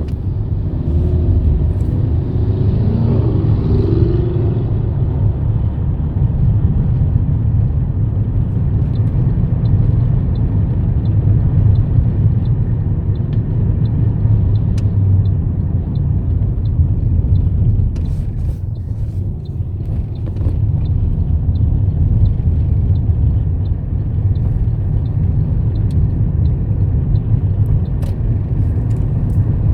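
Steady low rumble of a car on the move, heard from inside, with faint evenly spaced ticking through most of it.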